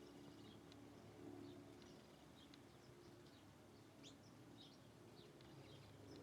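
Faint, scattered short high chirps of small birds, several overlapping, over a low steady hum.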